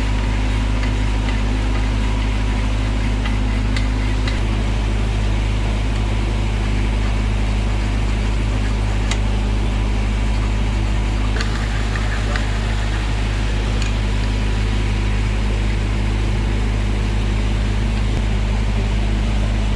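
Heavy engine running steadily at a constant speed, with a slight change in its note about four seconds in and again about eleven seconds in. A few faint taps sound over it.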